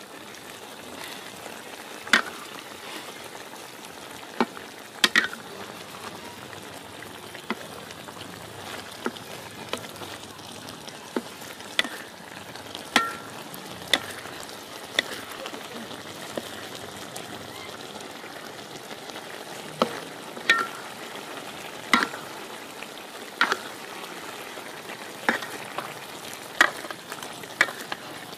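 Sweet-and-sour sauce with onion and tomato sizzling around a fried tilapia in a pan: a steady hiss with irregular sharp pops and crackles every second or two.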